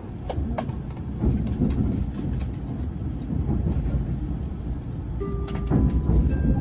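Train running, a low rumble heard from inside the carriage, with a few short steady tones near the end.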